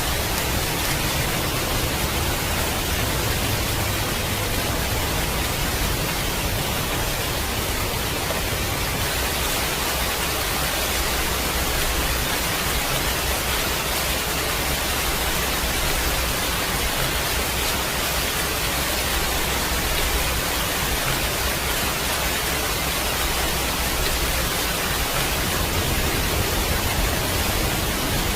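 Steady heavy rain falling, a dense, even hiss with no breaks, over a low rumble in the bass.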